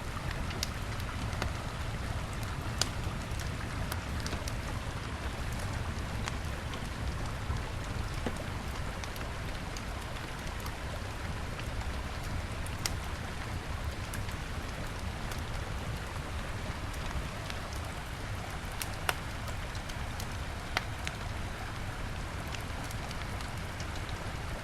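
Wood campfire crackling, with sharp pops every few seconds, over the steady rush of a river.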